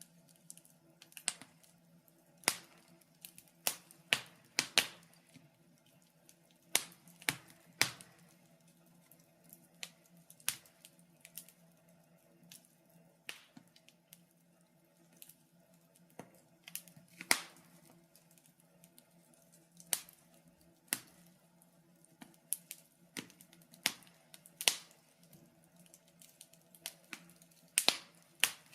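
Wood fire burning in a fireplace, crackling with sharp irregular pops and snaps at uneven intervals over a faint steady low hum.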